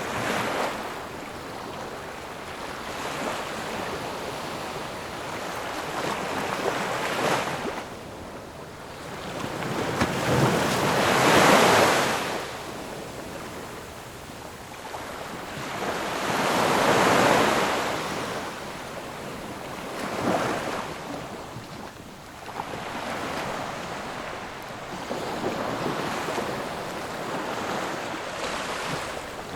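Ocean waves breaking and washing ashore, the surf swelling and fading in surges every five or six seconds, with the largest waves about a third and halfway through.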